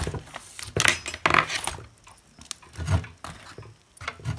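Small plastic and metal parts of a hot air gun handle clicking and rattling as it is taken apart by hand, in several short irregular bursts.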